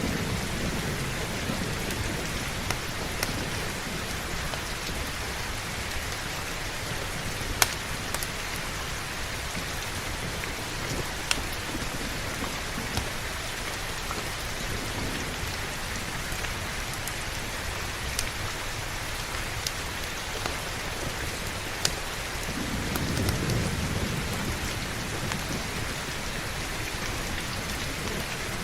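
Heavy, steady rain with scattered sharp crackles from a fireplace. A low roll of thunder fades out in the first second, and another rumbles in about 22 seconds in and lasts a few seconds.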